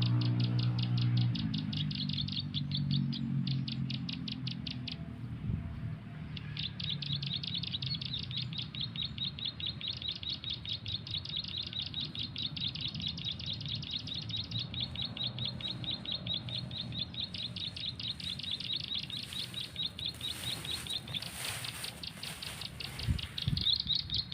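Bird chirping in long, rapid trains of evenly spaced high notes, about eight to ten a second, with a short break about five seconds in. Music fades out in the first second or two.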